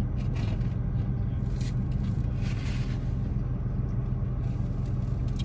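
Steady low hum of a car idling, heard inside the cabin, with a few brief rustles of a paper food wrapper.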